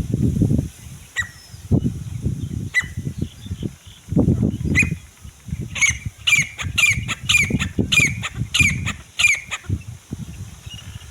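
Grey francolin calling: a few single shrill notes, then from about six seconds in a quick run of repeated shrill notes lasting about three and a half seconds. Loud, irregular low rumbling bursts run underneath throughout.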